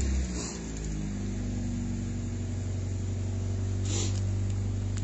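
Parked police SUV engines idling steadily, a low even hum. A brief click about four seconds in.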